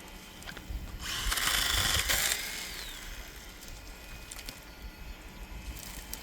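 A power tool runs in one short burst of about a second and a half, starting about a second in and tailing off, amid scattered knocks and clicks.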